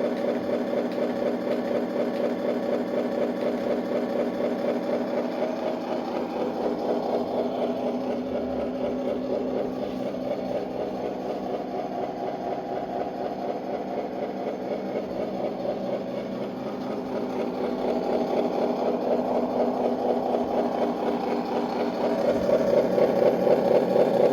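Simulated V8 truck engine sound from a 1/18 scale RC Scania 770S, running steadily with an even pulsing beat and growing louder over the last several seconds.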